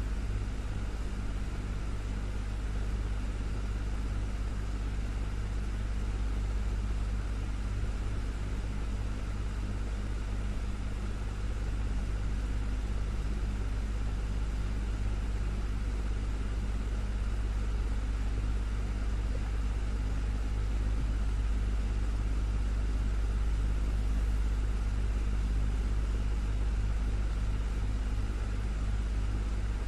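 Desktop fan running steadily: a constant low motor hum under an even rush of air.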